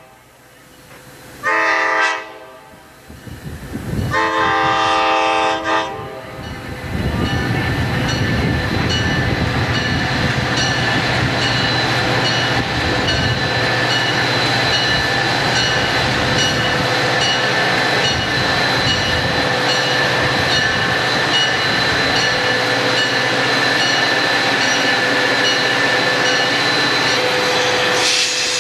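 Diesel locomotive's multi-note air horn sounding two blasts, the second longer, as the Florida Fun Train approaches. The train then rolls past on the rails in a steady, loud rush.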